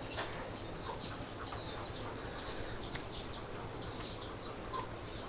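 Birds chirping, short high chirps repeating several times a second over a steady outdoor background, with a single sharp click about three seconds in.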